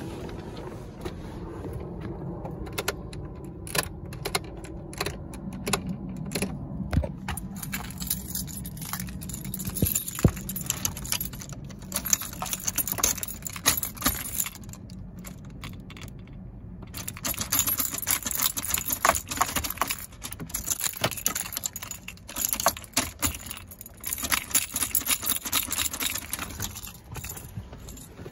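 A bunch of keys jangling and clicking as the ignition key is worked in a 2001 Ford Expedition with a dead battery. The rattling comes in spells, busiest in the second half.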